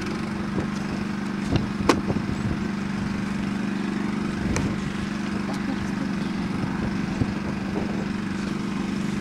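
Steady low machine hum that starts suddenly and holds, with a few sharp knocks over it, the loudest about two seconds and four and a half seconds in.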